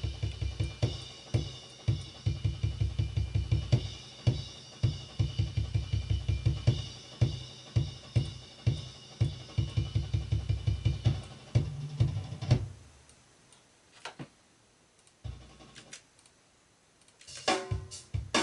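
Acoustic drum kit recording played back: kick, snare and cymbals in a steady groove with a heavy, boomy kick. About 12 seconds in it drops out to a few isolated hits, and the full kit comes back near the end.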